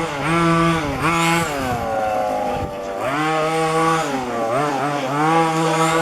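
Small two-stroke petrol engines of 1:5-scale RC cars running on a track. They rev up, hold, and drop back several times as the throttle is opened and closed.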